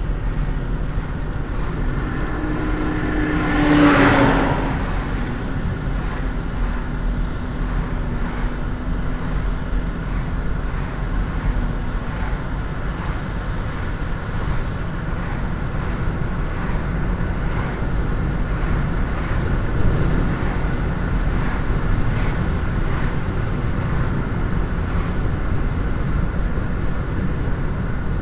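Motor vehicle running: steady low rumble of engine and road noise, with a pitched hum in the first part and a brief louder swell about four seconds in.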